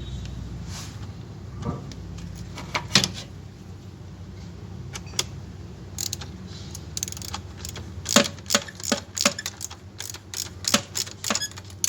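Irregular sharp clicks and knocks of hand tools and metal parts being worked on a car's engine, growing frequent in the second half, over a steady low hum.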